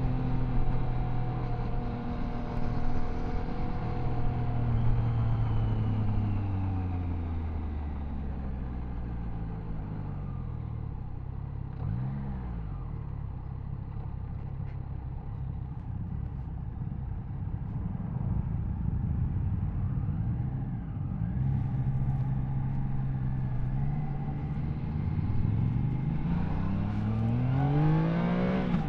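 Triumph Tiger Sport 660's inline three-cylinder engine. Its revs fall away over the first several seconds as the bike slows, then it runs low and steady, with a brief rev about twelve seconds in. The revs pick up again and rise steeply near the end as it accelerates hard.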